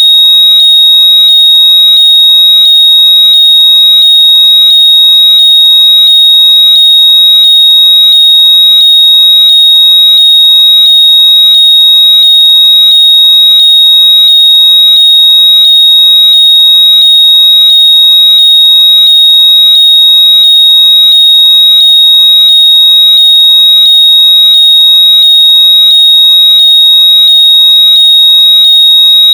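Very loud, steady high-pitched electronic tone, made to be heard through lost earbuds or headphones. Faint short rising chirps repeat about twice a second underneath it.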